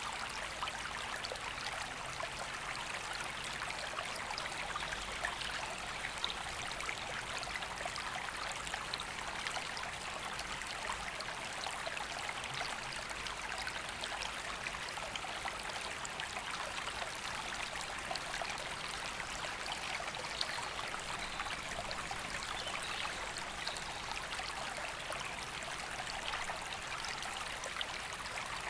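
A woodland river flowing steadily: an even rush of water over stones.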